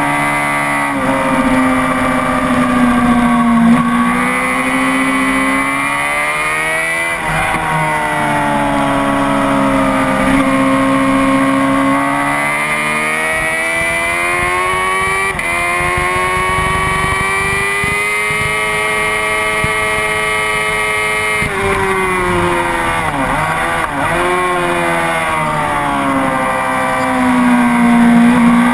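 Honda CBR600RR inline-four engine running hard at high revs, its pitch climbing and falling in long sweeps as the rider accelerates, shifts and slows for corners. It drops quickly about seven seconds in and again with several quick dips between about 22 and 24 seconds, as on downshifts into a corner.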